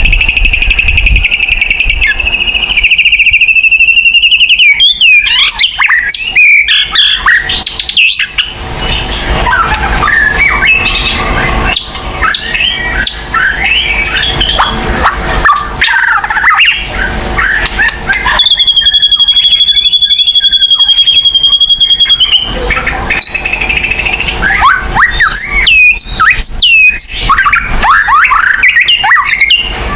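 White-rumped shama singing: a fast run of varied whistles, chirps and slurred notes. A long, even trill sounds near the start, and a second one about two-thirds of the way through.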